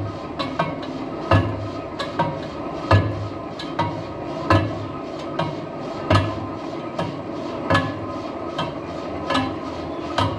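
Metal lathe turning a truck wheel rim: a steady machine hum with a heavy metallic knock repeating evenly about every one and a half seconds, and lighter clicks in between.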